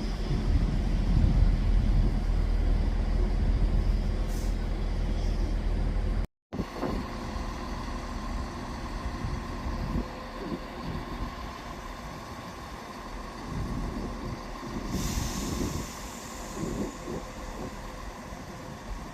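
Train at a railway station: a loud low rumble, then a sudden cut about six seconds in to quieter station noise with a steady hum. A short hiss of air comes about three-quarters of the way through.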